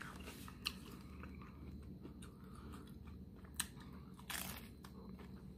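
Faint close-up chewing of crunchy hard-shell corn tacos, with small crackles and a louder crunch of a bite about four seconds in.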